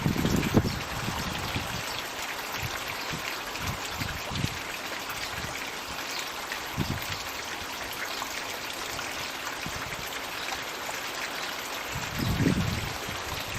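Floating magic bucket water feature pouring a steady trickle of water into a pond. Low rumbles or thumps come in the first second or so and again near the end, with a few single knocks in between.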